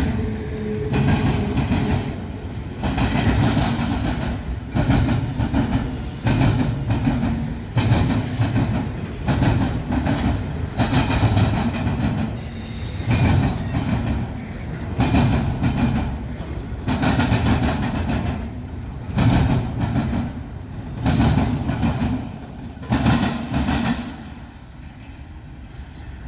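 Freight train cars rolling over a railroad diamond crossing, the wheels clattering loudly over the crossing in repeated surges about every two seconds. The clatter fades about 24 seconds in as the end of the train clears the crossing.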